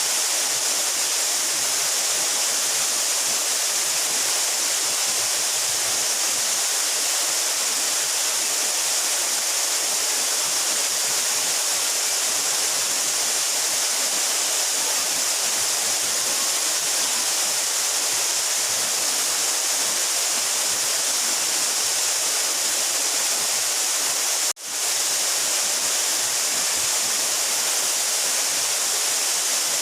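Steady rush of water from a 12-metre mountain waterfall, a hissy roar with most of its weight in the high range. The sound drops out for a split second about two-thirds of the way through.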